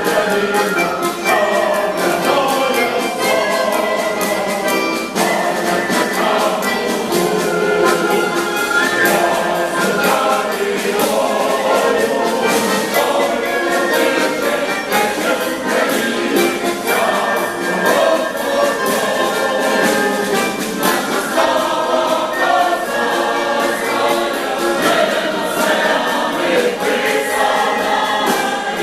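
Choir singing a Ukrainian song in parts, with instrumental accompaniment.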